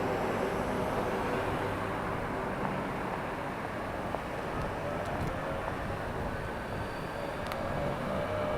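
Steady rush of wind and rolling noise while riding a Solowheel electric unicycle, with a faint whine that rises in pitch near the end.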